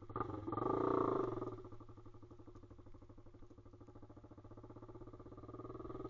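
Pit bike's single-cylinder engine just after starting: revved once about a second in, then settling to an even idle that picks up slightly near the end.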